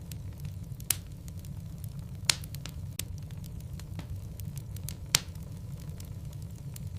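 Wood logs burning in a fireplace: a steady low rumble of the fire with scattered small crackles and three louder sharp pops, about one, two and five seconds in.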